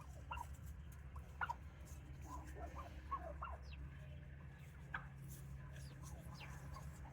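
Wild turkeys calling softly, with scattered short clucks and chirps, over a steady low hum.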